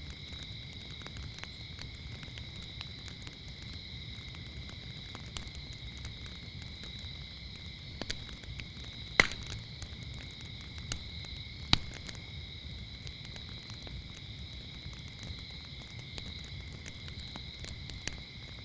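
Wood fire crackling with scattered small pops, two much louder snaps about halfway through, over a steady chorus of chirping crickets.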